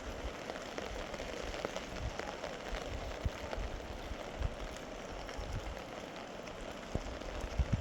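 Heavy rain falling steadily, with a few sharper ticks of drops striking a surface.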